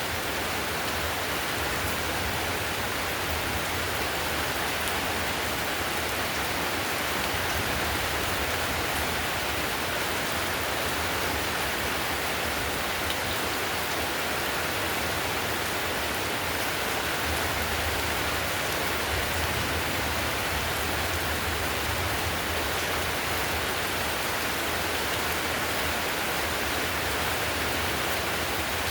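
Heavy rain drumming steadily on a clay tile roof, a dense, even hiss of drops with no breaks.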